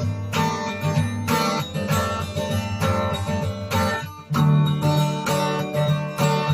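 Instrumental passage of a song: acoustic guitar strumming chords, with a brief drop in level about four seconds in.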